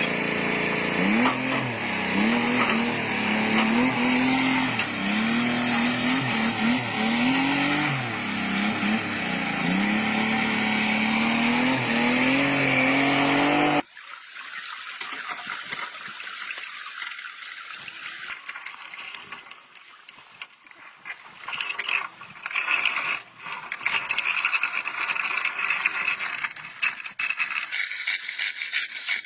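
A motor running loud with its pitch repeatedly dipping and recovering, as if loaded and unloaded, then cutting off abruptly about fourteen seconds in; after that, quieter irregular scraping and knocking.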